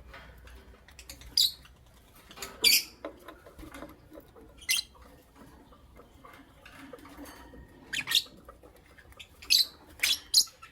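Lovebirds giving short, sharp, high-pitched chirps, scattered singly and then in quick succession near the end, with soft rustling and scratching between them.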